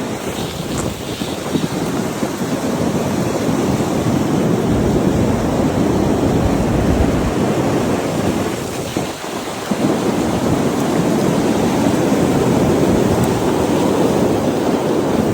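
Blizzard wind rushing and buffeting the microphone, a loud steady rumble with a brief lull about nine seconds in.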